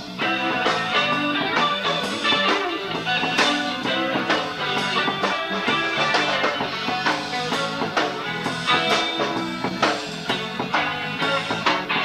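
A rock band playing live: guitar over bass guitar and drums, with regular drum strikes all through.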